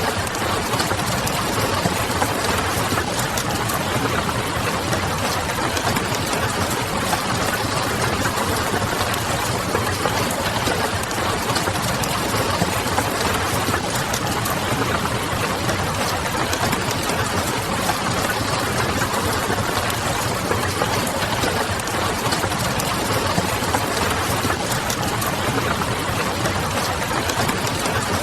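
Steady rain with the crackle of a wood fire and a low hum underneath, an even, unchanging bed of noise with small crackles scattered through it.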